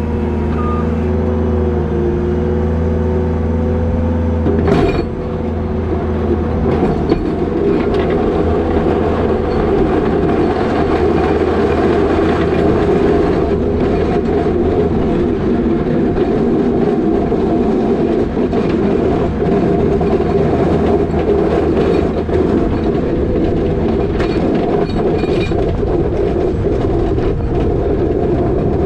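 New Holland L220 skid steer's diesel engine running with a steady whine; about five seconds in, the sound turns into a rougher, noisier rumble that carries on.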